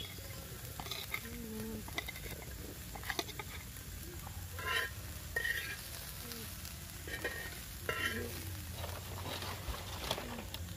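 Chopped onions and green chillies sizzling in a flat pan, with a metal spatula scraping and stirring them in short strokes every second or two.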